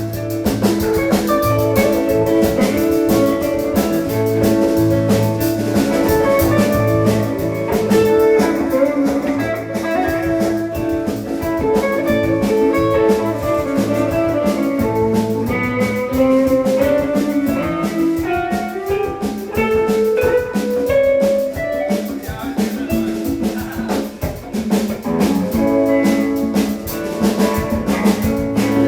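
Live band playing with guitar, bass and drum kit over a steady beat, with a guitar run climbing in pitch around twenty seconds in.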